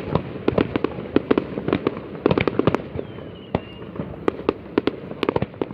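Fireworks going off in a dense, irregular barrage of sharp bangs and pops, several a second, with a faint brief whistle about three seconds in.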